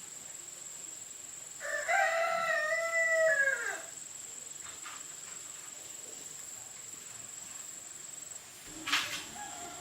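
A rooster crowing once, a held call of about two seconds that falls in pitch at the end. A thin, steady high-pitched whine runs behind it and breaks off briefly near the end with a sharp click.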